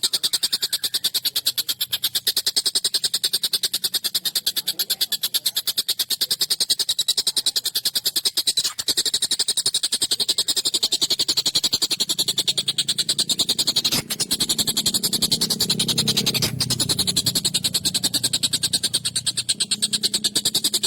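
Tengkek buto kingfisher calling in a continuous, very fast, high-pitched rattle of sharp notes. A faint low hum joins in about halfway through.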